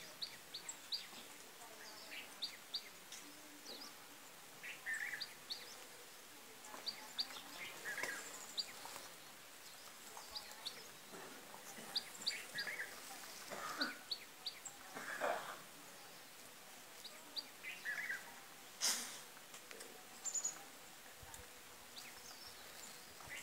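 Birds chirping, with short high calls and quick ticks repeated irregularly. A brief, louder burst of noise comes about three-quarters of the way through.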